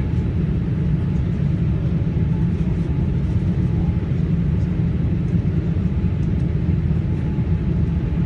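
Boeing 787 Dreamliner in flight heard from inside the cabin: a steady, low rumble of engine and airflow noise.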